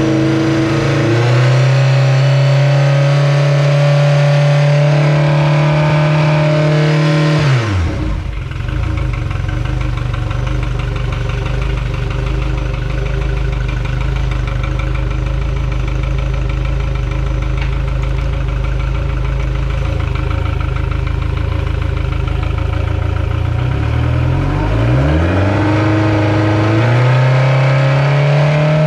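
2003 Mercury 115 hp EFI four-stroke outboard, a four-cylinder, running at raised revs, then throttled back sharply to a steady idle about a quarter of the way in. Near the end it is revved up again and held there.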